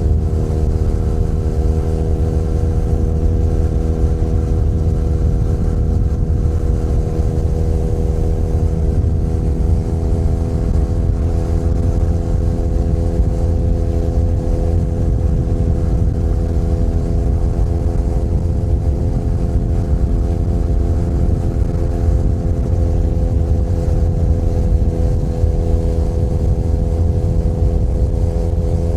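Benelli Leoncino 500 Trail's parallel-twin engine pulling steadily under way, its pitch rising slowly and evenly.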